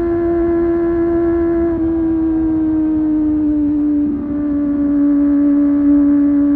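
Kawasaki ZX-25R SE's 250 cc inline-four engine running at high, steady revs under way. Its high note sinks slowly in pitch, with brief dips about two and four seconds in, over low wind rumble.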